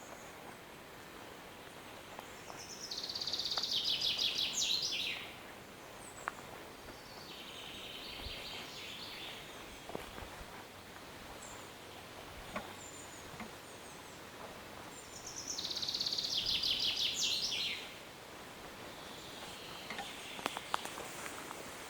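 Wild songbird singing: two loud phrases of rapid trilled notes, each about two and a half seconds long and dropping in pitch at the end, the first a few seconds in and the second after about fifteen seconds. Softer bird calls come between the phrases, and a few light clicks near the end.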